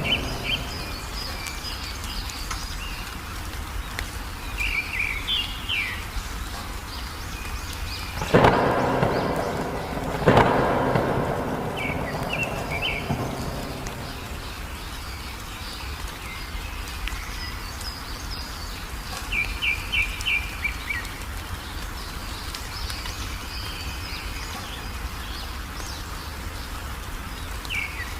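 Steady rain with two sudden thunderclaps about two seconds apart near the middle, each trailing off into a rumble. Small birds chirp in short, quick trills throughout.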